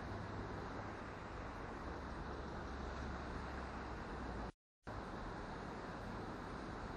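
Steady outdoor rumble and hiss with no distinct events, cut to dead silence for a fraction of a second about two-thirds of the way through.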